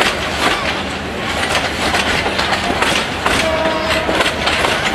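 Passenger train coaches rolling past close by, their wheels clattering over the rail joints in a dense, steady run of clicks over a rumble.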